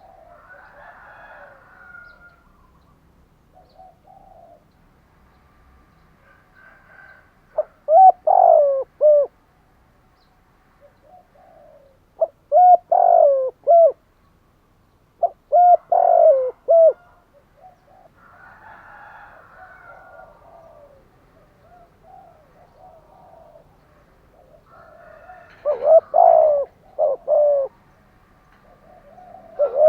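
Spotted dove cooing: four phrases of several coos each, spaced a few seconds apart, with softer chirping calls in the gaps between them.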